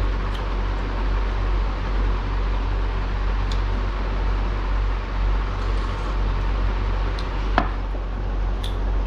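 Steady rushing background noise with a low hum, broken by a few light clicks, the sharpest about seven and a half seconds in.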